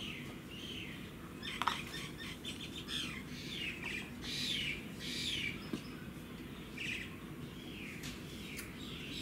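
Birds chirping, many short falling chirps repeating, over a steady low background hum. There is one sharp click about a second and a half in.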